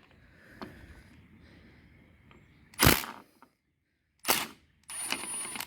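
Two sharp clacks of hand tools and loose engine parts being handled, about a second and a half apart, then a short rustling scrape near the end.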